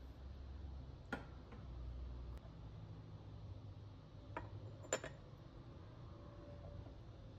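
A few light clicks and clinks of tableware, cutlery or china touching, spread over several seconds; the clearest is a short ringing clink about five seconds in.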